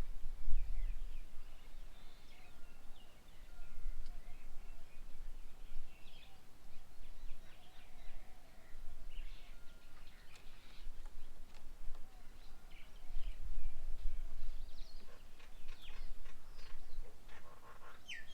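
Several small birds chirping and calling, with short overlapping calls scattered all through, over an uneven low rumble that swells and fades.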